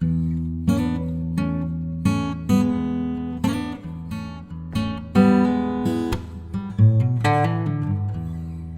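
Background music: acoustic guitar played with strummed and plucked chords, a new chord struck about every half second.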